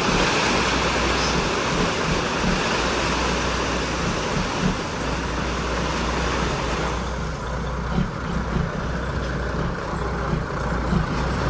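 Truck driving: a steady low engine rumble under road and wind hiss, the hiss easing about seven seconds in.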